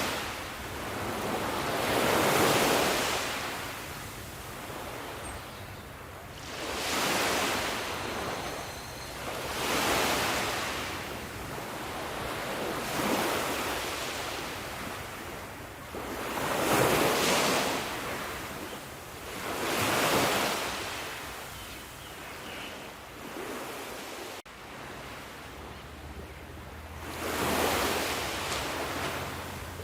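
Ocean waves breaking and washing up on a shore, the surf swelling and fading again every three to four seconds.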